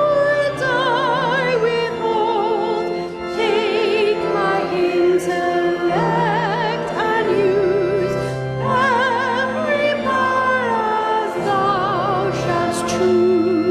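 A hymn being sung, the voice or voices carrying a wide vibrato, over long held accompaniment chords.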